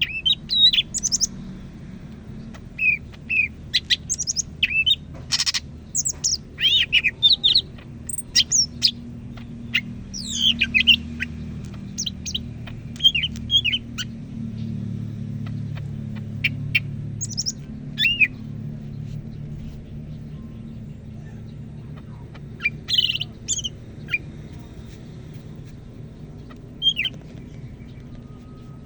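Cucak ijo (greater green leafbird) singing in quick bursts of sharp, high whistled and chipping notes, dense through the first half, then in scattered short phrases. A steady low hum runs underneath, and there is one sharp click about five seconds in.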